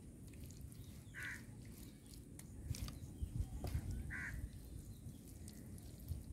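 A bird calling twice, short calls about three seconds apart, over a low outdoor rumble and faint small clicks from hands rubbing marinade into a raw chicken.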